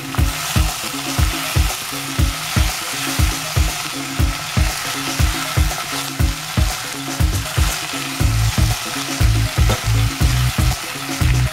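Chicken and root vegetables sizzling in a pot as they are stir-fried with chopsticks, the cooking sake cooking off. A steady low beat of background music runs underneath, louder near the end.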